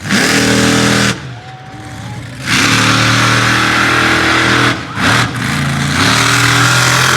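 Monster truck engine revving hard: a short burst, a drop, then a long loud run of revving that eases briefly about five seconds in.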